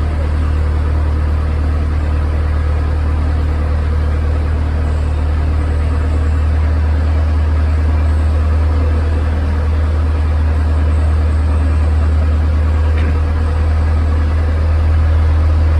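Boat engine running steadily at constant speed, a loud low hum.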